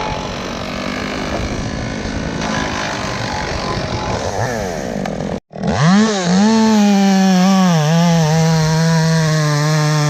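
Two-stroke chainsaw running at high speed. About five seconds in the sound breaks off for a moment. The saw comes back with a clear, high engine note that rises, wavers and then holds steady at full throttle.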